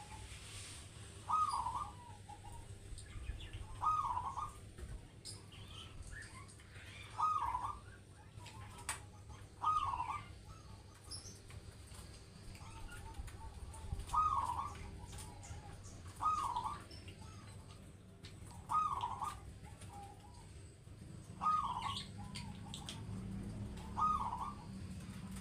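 Zebra dove (perkutut) cooing its song over and over, one short phrase about every two and a half seconds, with faint higher chirps between.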